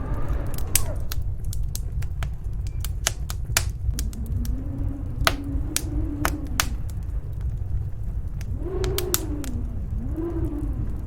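Wood fire in a fireplace crackling with sharp, irregular pops over a steady low rumble of snowstorm wind. The wind gusts howl, rising and falling in pitch, about four seconds in and again from about eight and a half seconds on.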